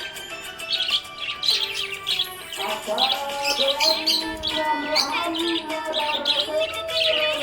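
Small pet parrots chirping in quick, high clusters several times a second, over background music with long held tones.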